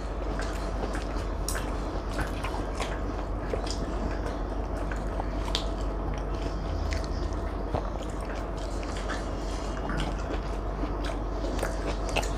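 Two people eating close to the microphone: biting and chewing chilli chicken and roti, with many small irregular wet mouth clicks.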